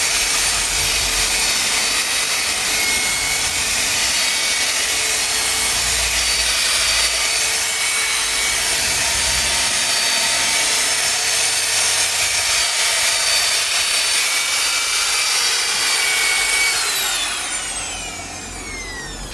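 Electric machine polisher running steadily on car paintwork with a high motor whine, then switched off about seventeen seconds in, its whine falling as it spins down.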